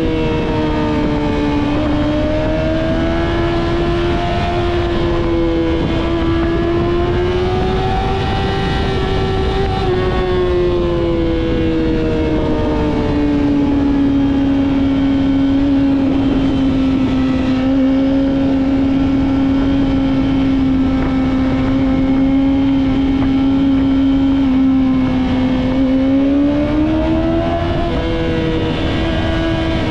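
Yamaha YZF-R6 inline-four with a Two Brothers full exhaust system, running hard under way. Its pitch rises and falls gently with the throttle for the first ten seconds, settles lower and steady for about a dozen seconds, then climbs again near the end.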